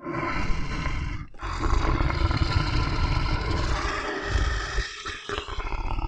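A bear's deep, rough growling roar in long drawn-out bouts, breaking off briefly about a second in and again about five seconds in.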